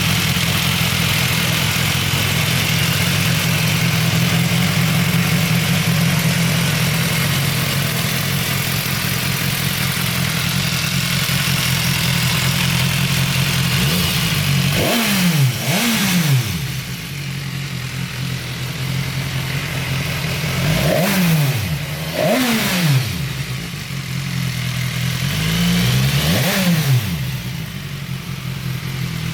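BMW S1000XR motorcycle's inline-four engine idling steadily, then revved with short throttle blips in the second half, mostly in pairs, each rising sharply and falling straight back to idle.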